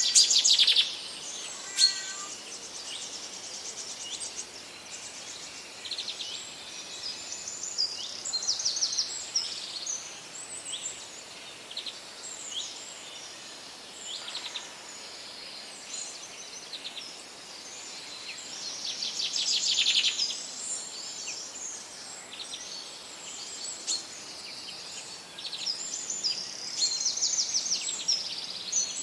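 Several songbirds singing and calling at once: overlapping chirps, trills and rapid runs of high notes, with louder bursts right at the start and about twenty seconds in, over a faint steady hiss.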